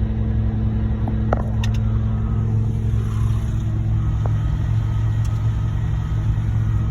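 Heavy diesel truck engine running steadily with a deep, even rumble, with a few light clicks about a second and a half in.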